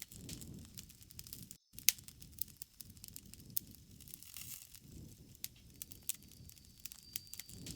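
Campfire crackling: a low rush of burning wood with frequent sharp pops and snaps, the loudest pop about two seconds in.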